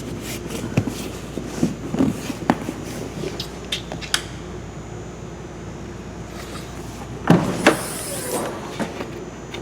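Knocks and clicks of a boat's transom storage hatch being handled and opened, with a louder clatter about seven seconds in.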